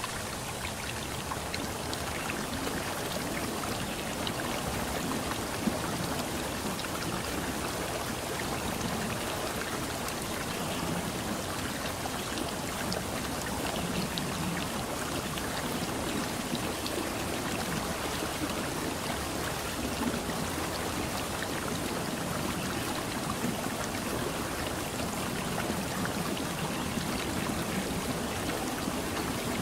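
Steady wash of running or falling water, an even hiss with fine drop-like patter throughout.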